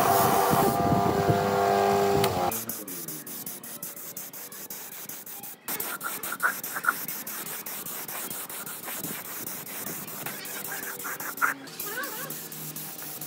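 Bench grinder with a wire wheel running against a steel chainsaw guide bar, brushing rust off it. It is a steady whine that stops abruptly about two and a half seconds in. A much quieter background with scattered faint ticks and a few sharper clicks follows.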